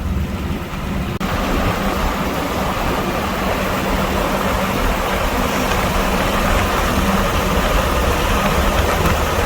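Steady engine and road noise of a vehicle under way. The sound changes abruptly about a second in, then holds steady with a low hum.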